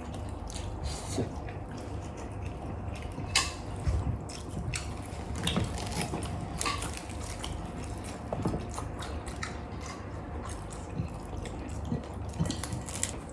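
Eating sounds: scattered, irregular clicks and small wet mouth and utensil noises of people chewing food, over a steady low hum.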